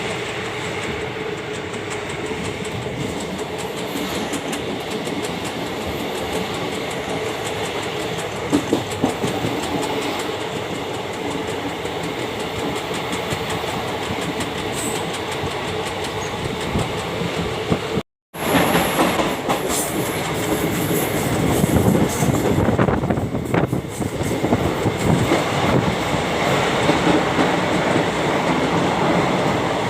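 Train running along the track, its wheels clattering over the rail joints. The sound cuts out for an instant a little past halfway, then comes back louder with sharper knocks.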